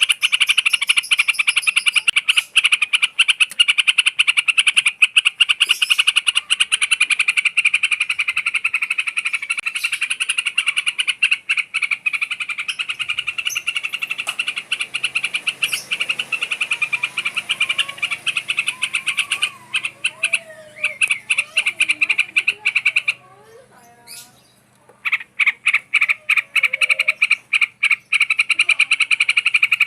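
A loud, fast pulsing animal trill, continuous and high-pitched, that breaks off for about two seconds near the end and then starts again. Faint, lower, gliding whistled notes are heard in the middle.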